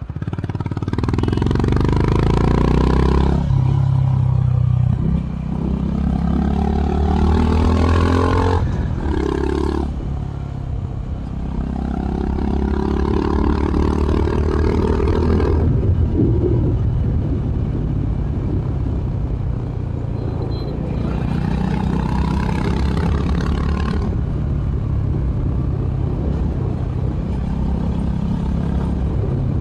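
Honda H'ness CB350's single-cylinder engine through its stock exhaust, pulling hard through the gears: the pitch climbs and drops back with each upshift, four times in the first half. After that it runs at a steadier pitch with a few milder rises in throttle.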